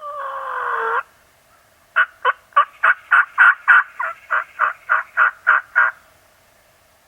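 Hen turkey yelping: a drawn-out note falling in pitch at the start, then a run of about thirteen evenly spaced yelps, roughly three a second, lasting about four seconds.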